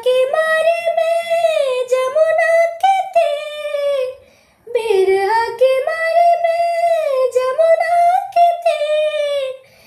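A girl's or young woman's unaccompanied singing voice holding long, wavering melismatic notes of a Hindi devotional song about Shyam. It comes in two long phrases with a brief breath between them about four seconds in.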